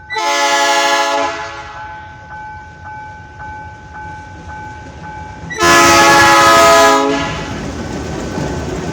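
Freight locomotive's air horn sounding two blasts, the first about a second long and the second about a second and a half, in answer to a raised-arm signal from trackside. After the second blast, the rumble of the train running past builds.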